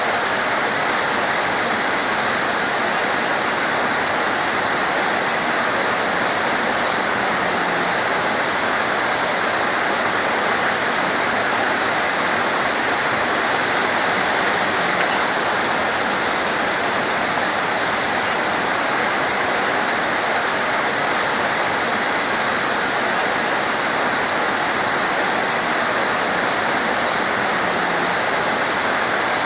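Heavy rain pouring down steadily, a dense, even hiss with no let-up. Two brief clicks stand out, one about four seconds in and one well past the middle.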